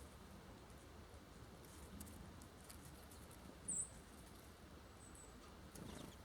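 A small songbird gives one short, high chip a little past the middle, and a fainter one about a second later, over faint scattered ticks and scratches of birds at the feeder.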